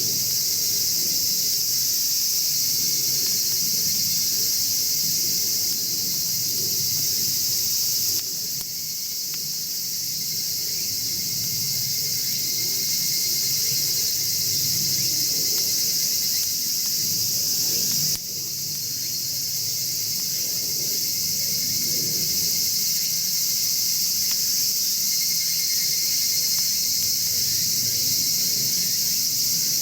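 Steady high chorus of crickets or other night insects, dropping abruptly twice and swelling back, over the low rush and faint crackle of a wood fire burning in a chimney fire pit.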